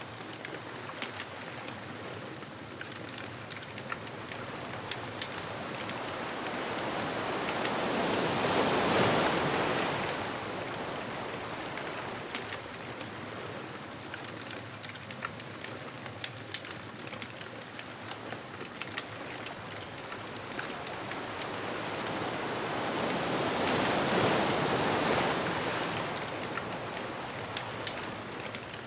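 Ocean waves washing onto a beach, swelling to two peaks about fifteen seconds apart, with a bonfire crackling in small pops throughout.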